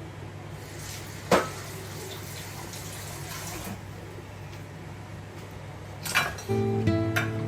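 Kitchen handling sounds over a steady low hum: a sharp knock about a second in, a few seconds of soft hiss, and a clatter near the end. Acoustic guitar music then comes in.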